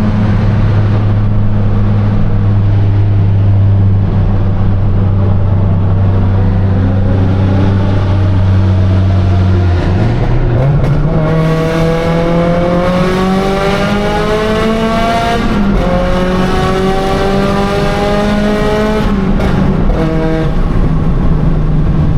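Car engine running with a steady low drone, then rising in pitch about halfway through and climbing twice with a drop between, like a car accelerating through a gear change.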